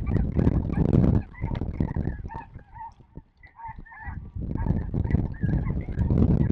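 Snow goose calls: a run of short, high, yelping calls through the middle, between stretches of loud, low rumbling noise on the microphone.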